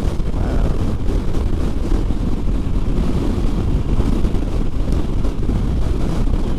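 Strong gusty wind buffeting the microphone of a motorcycle moving at highway speed. It is a loud, steady rushing noise, heaviest in the low end, with the engine and road noise buried beneath it.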